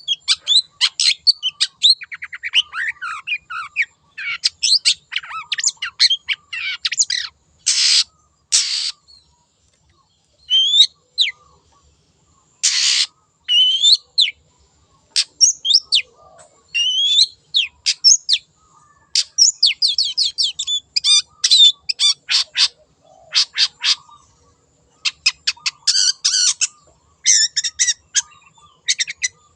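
Long-tailed shrike (cendet) singing a fast, varied song of rapid chattering note runs and sweeping whistles, broken by a few harsh rasping notes and short pauses.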